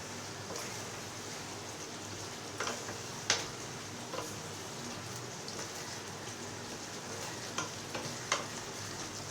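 Chicken pieces sizzling as they fry in a spice paste and oil, with a steady hiss. A spatula stirs them, knocking sharply against the pan about five times, loudest a little after three seconds in.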